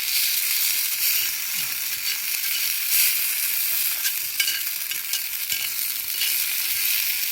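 Food sizzling over a wood fire: a steady frying hiss with small crackling pops scattered through it.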